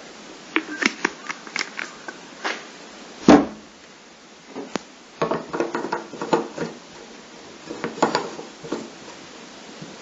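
Irregular clicks, taps and light knocks of objects being handled, with one louder thump about three seconds in, over a steady hiss.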